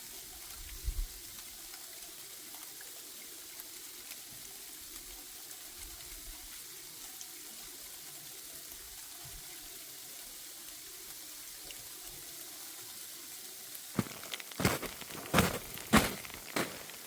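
Freezing rain falling as a steady hiss. About fourteen seconds in, a run of sharp, irregular crunching clicks starts.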